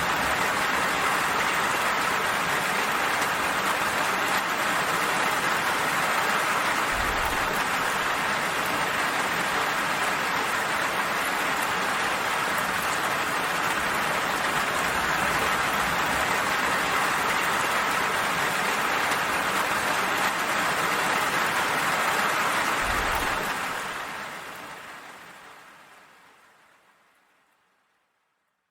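Steady rainfall, an even hiss of drops, with two brief low thuds. About five seconds before the end it fades out smoothly to silence.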